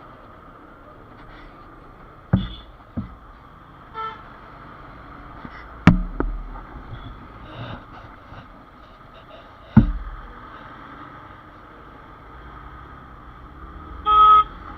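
Road traffic heard from a moving motorcycle in a jam: steady road noise, a faint horn about four seconds in and a clear vehicle horn honking near the end, with several sharp thumps as the bike jolts over a potholed road surface.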